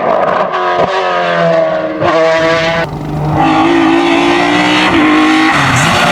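Race car engine at high revs on a hillclimb run, the pitch falling, then jumping about two seconds in as gears change, with a short break in the sound near the middle.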